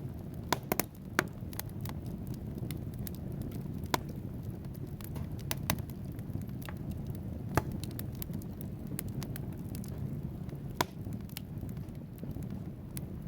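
Wood fire burning in a fireplace: a steady low rumble of flames with irregular sharp crackles and pops from the burning logs, a few louder snaps standing out about a second in and again around the middle and near the end.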